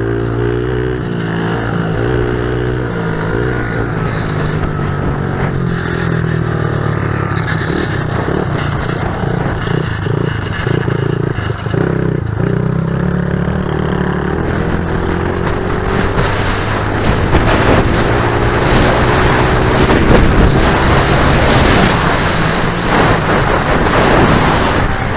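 Pit bike engine running and revving, its pitch rising and falling repeatedly. It grows louder and rougher about two-thirds of the way in.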